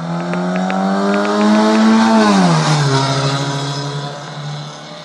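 Honda car engine revved for an exhaust sound check. The engine note climbs slowly for about two seconds, then drops quickly and settles to a steady, lower running note.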